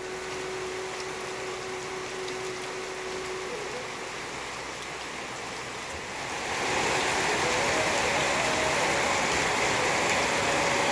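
Steady rain falling, growing louder and heavier about six seconds in.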